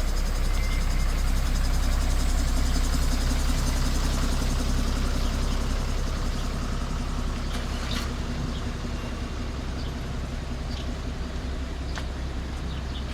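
Street traffic: a motor vehicle's engine and tyres going past, loudest about two seconds in and then fading away, with a few small clicks about eight seconds in.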